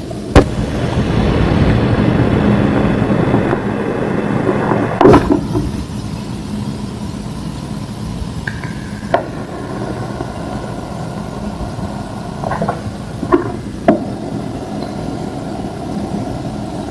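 Thick homemade gym chalk slabs being crushed by hand: a sharp snap just after the start, a few seconds of crumbling, a loud crack about five seconds in, then scattered smaller snaps. A steady low hum runs underneath.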